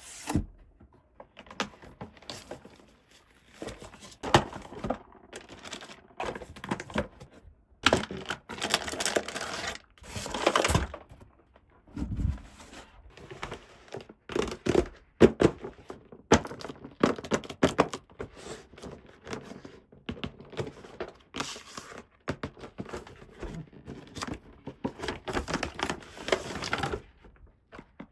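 Hands unboxing a plastic toy set: irregular clicks and taps of small plastic pieces, with stretches of packaging rustling and tearing.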